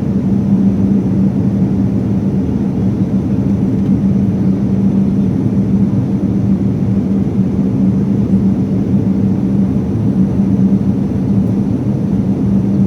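Steady jet airliner cabin noise: an even rushing drone of engines and airflow, with a constant low hum running through it.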